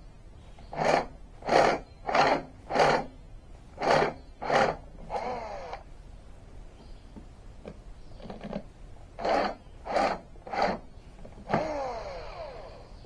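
Runs of short, even rasping strokes, about one and a half a second, as of a tool working metal. A small motor whines down in pitch twice, about five seconds in and near the end.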